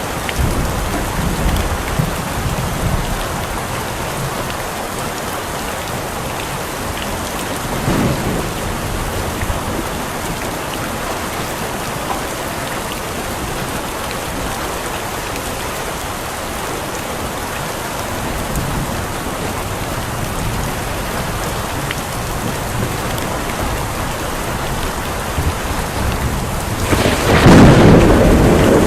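Steady heavy rain with thunder: low rumbles near the start and about eight seconds in, and a loud, long roll of thunder building near the end.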